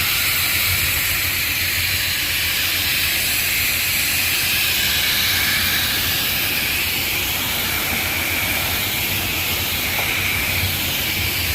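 Self-serve car wash high-pressure spray wand spraying water in a loud, steady hiss.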